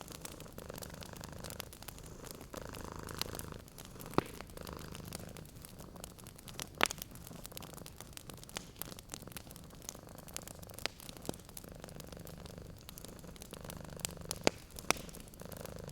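A domestic cat purring steadily, swelling and fading with each slow breath, with a few sharp pops from a crackling wood fire.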